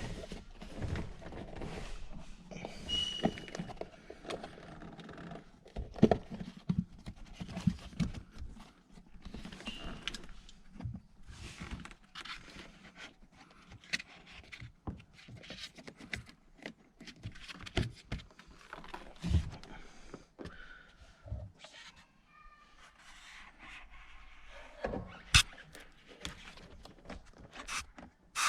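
Irregular knocks, clicks and rattles of hand tools and metal parts being handled, with a few louder thunks.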